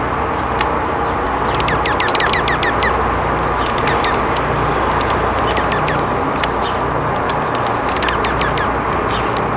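Small songbirds chirping in quick runs of short falling notes, with single high calls between, over a steady background rumble.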